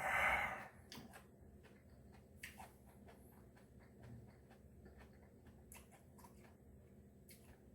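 Quiet eating sounds close to the microphone: a short breathy sniff or exhale at the start, then faint scattered clicks of chewing and mouth sounds.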